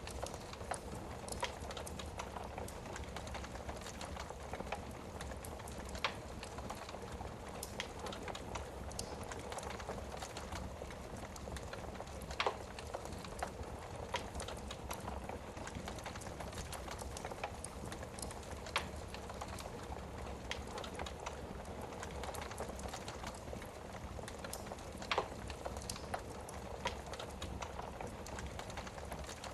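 Wood fire crackling in a fireplace: a steady low hiss of the flames with scattered small crackles, and a few sharper pops about six, twelve and twenty-five seconds in.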